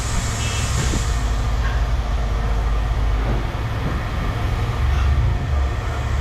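A large vehicle engine running steadily with a low rumble.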